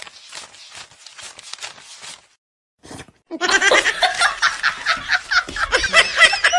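A stack of paper banknotes is flicked through with quick, light ticks. After a short pause, loud laughter breaks out in rapid repeated bursts and is the loudest sound.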